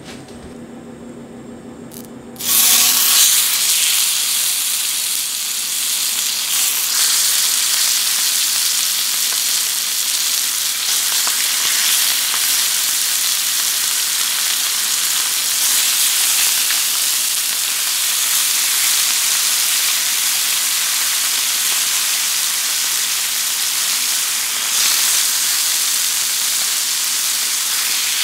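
Chicken thigh fillets sizzling in hot oil in a frying pan. The loud sizzle starts suddenly about two seconds in, after a faint steady hum, as the first pieces go in, and it carries on steadily as more chicken fills the pan.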